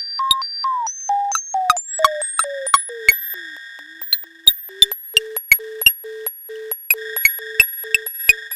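Analog synthesizer sequence: short pure-tone blips with sharp clicks, about three a second, over a steady high drone. The blip pitch steps downward for a few seconds, then settles into one low note repeated.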